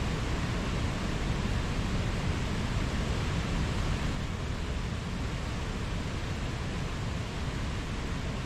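Mountain stream water rushing and splashing over rocks, a steady, even noise.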